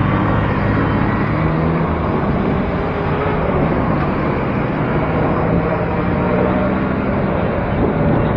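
City road traffic: motor vehicle engines running and passing close by, over a steady rushing road noise.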